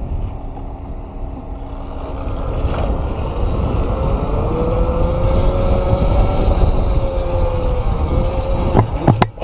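Electric bike being ridden, with heavy wind rumble on the microphone. From about four seconds in, a motor whine rises slowly, holds, and falls away. A couple of sharp knocks come near the end.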